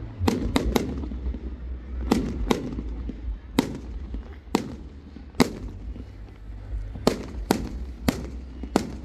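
Fireworks going off in a display: about a dozen sharp bangs at irregular intervals, some in quick pairs and threes, over a steady low rumble.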